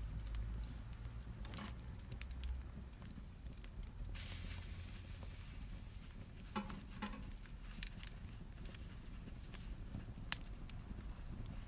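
Fire crackling in a fireplace: scattered pops and snaps over a low rumble of the flames, with a brief hiss a little over four seconds in and one sharp pop near the end.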